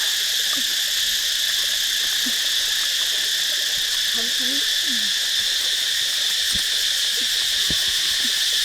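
A steady, high-pitched chorus of insects droning without a break, with a couple of faint clicks near the end.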